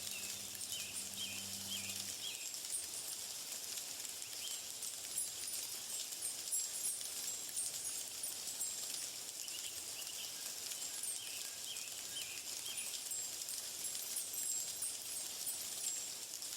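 Nature ambience: small birds calling in groups of short, falling chirps over a steady high hiss.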